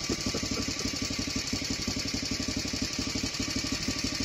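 Junak motorcycle's single-cylinder four-stroke engine idling with a quick, even exhaust beat.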